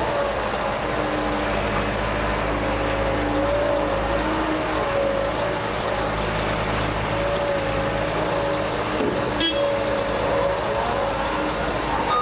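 Liebherr A 924 wheeled excavator's diesel engine running steadily, with a whining tone that wavers in pitch over the drone. There is a short click about nine and a half seconds in, and a reversing beep starts at the very end.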